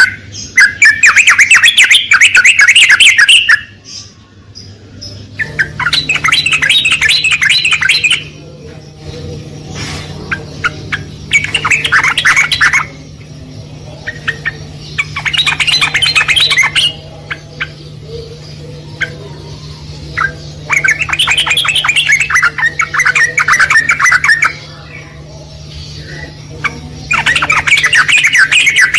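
Yellow-vented bulbul (trucukan) singing: six bursts of rapid bubbling, chattering notes, each two to three seconds long and a few seconds apart. A steady low hum runs underneath from about five seconds in.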